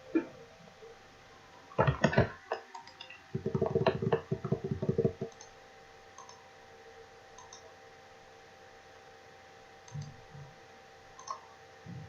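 Computer mouse and keyboard clicks: a few single clicks, then a rapid run of clicks lasting about two seconds, then a few faint clicks near the end, over a faint steady electrical hum.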